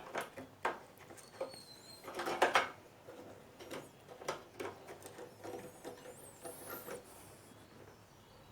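Scattered light clicks and scrapes of small parts being handled, with a brief high squeak about two-thirds of the way through.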